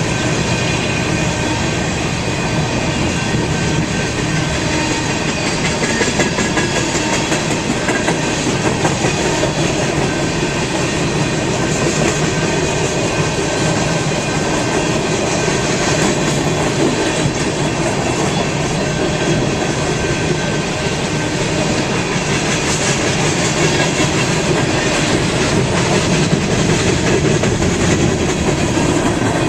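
A train rolling by on steel rails, its wheels and cars making a steady, loud rush and rattle throughout.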